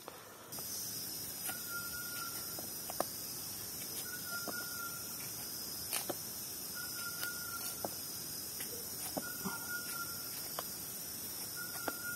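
Tropical forest ambience: a steady, high, shrill insect drone, with a short level call repeating about every two and a half seconds.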